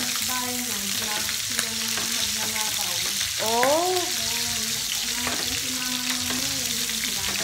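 Chicken breast frying in hot oil in a pan, a steady sizzle.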